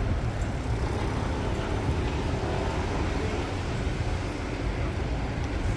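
Steady urban traffic noise: a continuous low rumble of road vehicles with no single event standing out.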